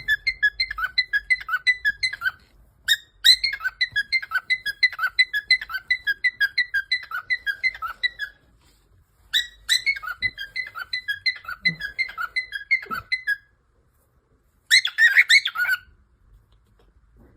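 Cockatiel whistling a tune of short repeated notes, about four a second, in three long runs with pauses between them, mimicking a phone notification sound. Near the end comes a brief burst of harsher chirps.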